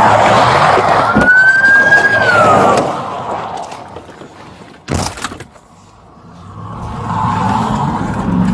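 A pursuing patrol vehicle's siren wailing over engine and road noise, fading out after about three seconds. A short sharp burst about five seconds in, then engine and road noise building again.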